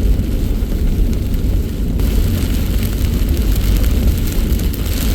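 Steady road and engine noise inside a moving truck's cabin, with the hiss of heavy rain on the truck growing louder about two seconds in.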